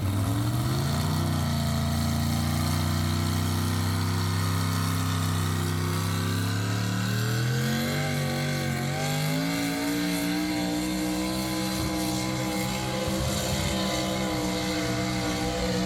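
A pulling vehicle's engine revving up in two steps, about a second in and again about eight seconds in, then held at the higher speed.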